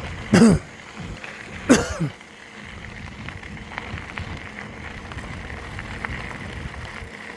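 Two short voiced calls, each with a bending pitch, about half a second and two seconds in, then a bicycle rolling along a dirt trail with a steady rustle and small scattered ticks.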